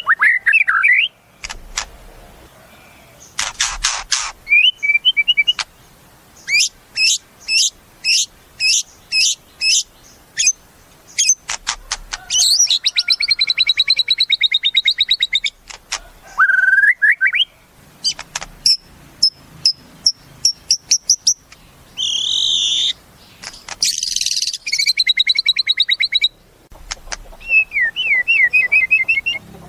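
White-rumped shama (murai batu) singing a varied song: strings of sharp high notes, buzzy rattling trills and short rising whistled phrases, with brief pauses between them.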